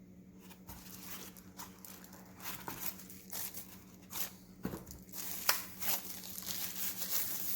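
Plastic packaging crinkling and rustling as items are unwrapped and handled, with scattered small clicks and knocks.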